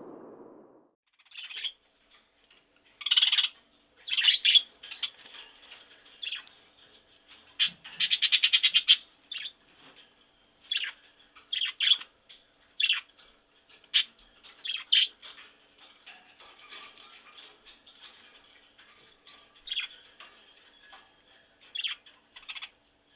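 Bird calls: short high chirps scattered irregularly, with one rapid pulsed trill lasting about a second about eight seconds in.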